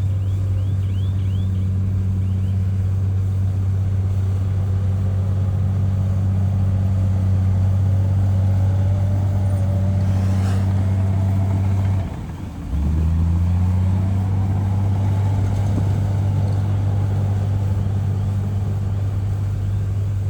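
Heavy diesel earthmoving machinery running at a steady engine speed, a low constant drone with a faint whine that slowly rises in pitch. The drone cuts out for under a second about twelve seconds in, then resumes.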